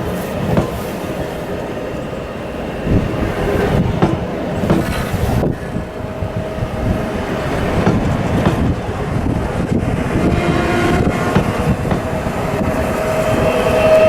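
Intercity passenger train running past, its wheels clacking over rail joints. A steady high-pitched tone fades out early on and comes back stronger near the end.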